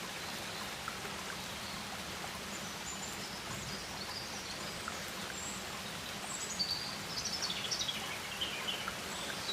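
Rainforest ambience: a steady watery hiss like a stream or rain, with short high bird chirps that grow busier in the last few seconds.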